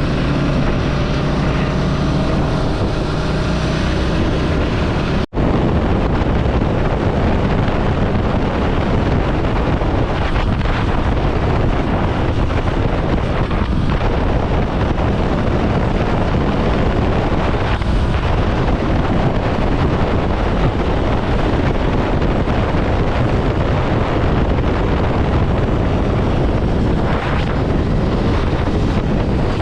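Ducati Scrambler Sixty2's 399 cc air-cooled L-twin running while the bike is ridden, its engine note clear for about the first five seconds. After a brief dropout, steady wind rush on the microphone largely covers the engine.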